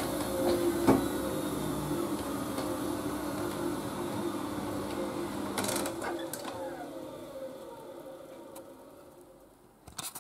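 Siemens Siwamat washing machine running with a steady motor hum and a few sharp clicks. About six seconds in it winds down, its whine slowly falling in pitch and fading away, with a couple of clicks at the end.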